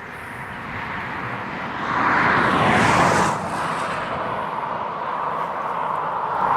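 Freight train wagons rolling past on the rails: a steady rush of wheel and rail noise that swells about two seconds in, then eases slightly after three seconds and carries on.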